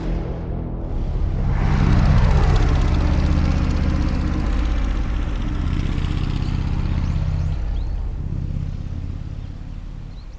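Harley-Davidson 1340 Evolution V-twin exhaust on a Softail Custom, running and building up in volume about two seconds in, then holding a steady pace with a couple of changes in engine note before easing off near the end.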